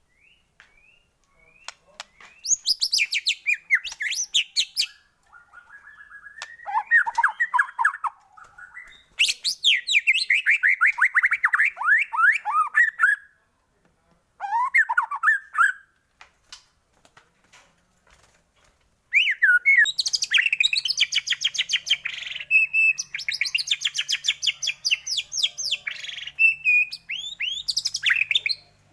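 White-rumped shama (murai batu) singing in bursts of rapid, sweeping whistled and chattering notes, phrase after phrase with short pauses between them and a long unbroken run in the last third. A lure song used to stir a captive shama into singing.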